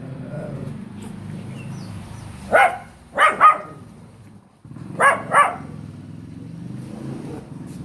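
A young dog barks five times in two quick groups, three barks and then two, over a steady low hum.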